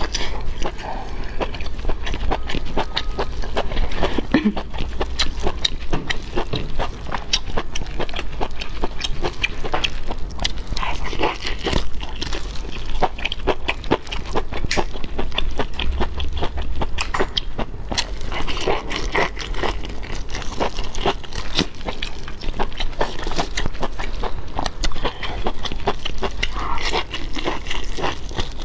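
Close-miked eating of a sauce-soaked sheet of honeycomb beef tripe: wet chewing, lip smacking and sticky mouth clicks in a dense, continuous run.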